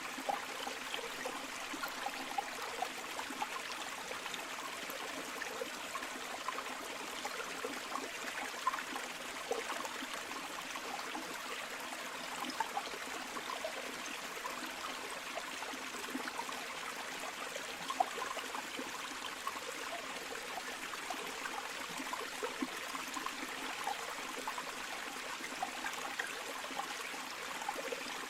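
Flowing river water running steadily, with many small splashes and gurgles over an even rush.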